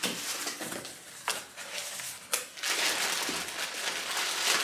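Cardboard box and its packaging being handled and opened: crinkling and rustling, with a few sharp clicks and knocks and denser rustling in the second half.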